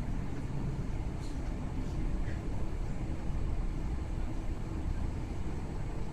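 Steady low rumble of a commuter train running between stations, heard from inside the carriage.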